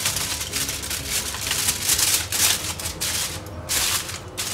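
Aluminium foil crinkling as it is folded by hand into a wrap. It comes in uneven bursts, with a brief pause a little past three seconds in.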